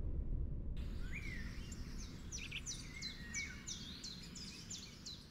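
Small birds chirping in a quick series of short high calls, about three a second, over a low rumble that fades away.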